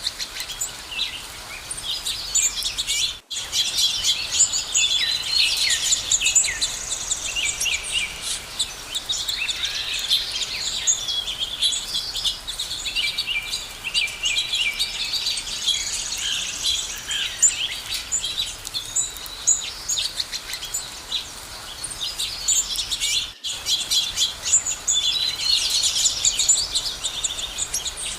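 A chorus of many small birds chirping and singing together, a dense tangle of short high calls and trills overlapping one another. The sound drops out for an instant twice.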